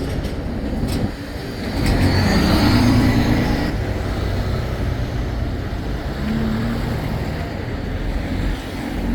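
Road traffic running past on a town street, a steady engine rumble with one vehicle passing louder and closer about two seconds in, fading after a second or two.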